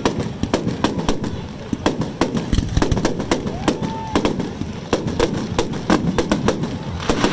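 Aerial fireworks bursting in a rapid, irregular string of bangs and crackles, several a second, over a continuous low rumble.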